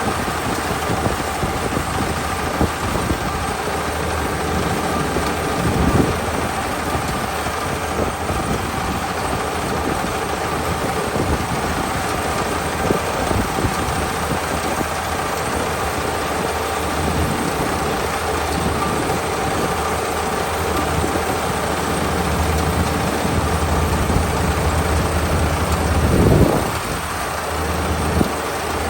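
Kubota ER572 combine harvester with a 72-horsepower diesel engine running steadily, its engine and machinery giving a constant hum with several steady whining tones. A brief louder swell comes near the end.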